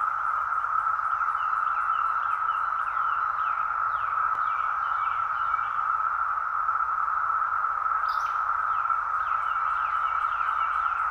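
Dense chorus of Brood X periodical cicadas, a steady unbroken drone, with birds chirping over it and a brief high sound about eight seconds in.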